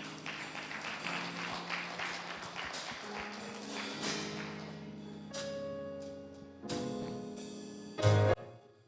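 Church band playing an instrumental introduction: held chords with cymbal and drum strokes over the first half, and a loud low chord hit near the end.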